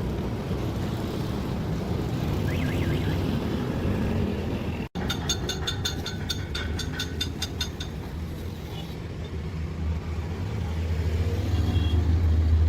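A vehicle engine running with a steady low rumble that grows louder near the end. A short run of clicks, about six a second, follows a sudden cut about five seconds in.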